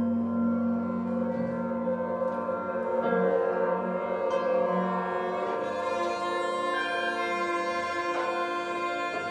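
Chamber ensemble of Chinese and Western instruments playing contemporary concert music: held chords over a low sustained note, with struck notes sounding over them in the second half.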